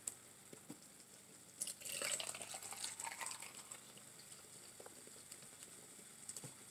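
Faint sizzling of food frying in a pan, swelling for a couple of seconds early in the stretch, with a few small clicks near the end.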